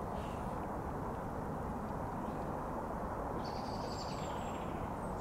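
A bird chirps in a short run about three and a half seconds in, over a steady low rumble of outdoor background noise.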